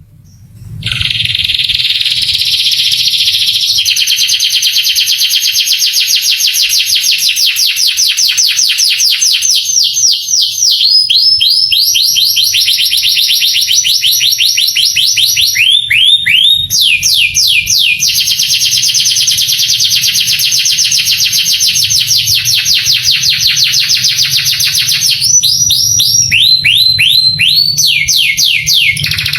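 Male canary singing a long, unbroken song of fast trills, about a second in after a brief silence. The song switches every few seconds between runs of rapidly repeated notes. Runs of falling notes come near the middle and near the end.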